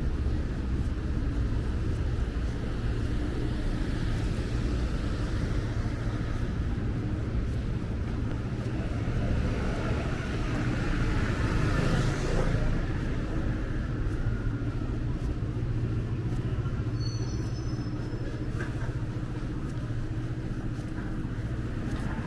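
Road traffic: a steady rumble of vehicles, with one passing close, rising and fading about twelve seconds in.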